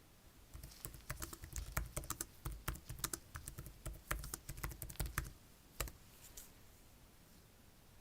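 A quick, irregular run of light taps and clicks, like typing, lasting about five seconds, then one more click a moment later.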